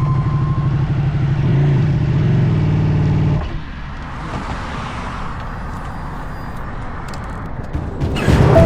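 A Ducati motorcycle engine runs with a steady low pulsing rumble, then drops away about three and a half seconds in, leaving softer road and wind noise. A loud sudden sound comes in near the end.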